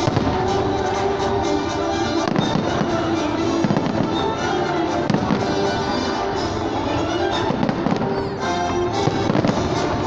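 Fireworks bursting in quick succession, a dense run of bangs and crackles, with music playing at the same time.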